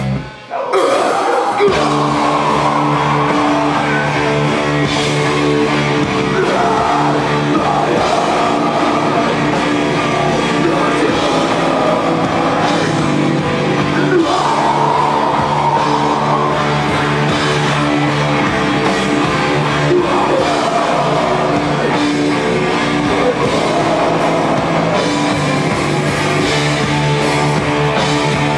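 Live rock band playing, with guitars and drum kit; the sound cuts out briefly about half a second in, then the full band comes back in and keeps playing.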